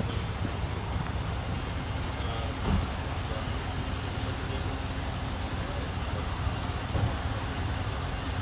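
Steady low rumble of road traffic and vehicle engines, with a couple of brief thumps.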